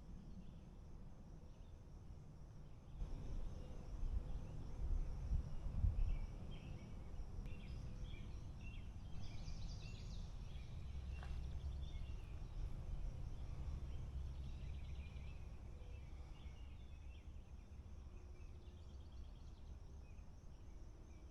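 Woodland ambience: birds singing and insects trilling, over a low rumble that comes in about three seconds in and is loudest around five to six seconds in.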